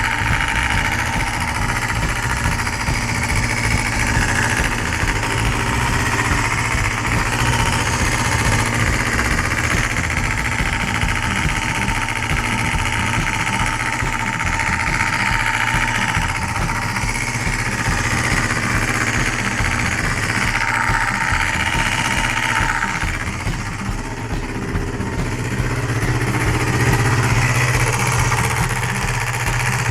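Honda MC14E 250 cc inline-four motorcycle engine, with gear-driven cams, running, with a mechanical noise the owner is trying to cure through the cam gear train. The engine speed dips a little past two-thirds of the way through, then rises again.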